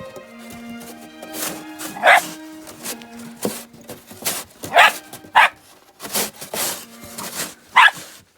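A dog barking four times in short single barks, over background music with held notes.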